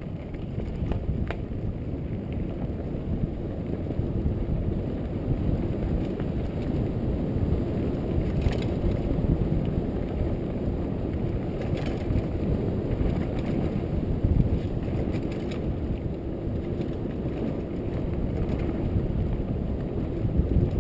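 Trek Fuel EX8 mountain bike rolling over a dirt trail: a steady rumble of tyres and wind buffeting the camera's microphone, with a few short rattling clicks from the bike.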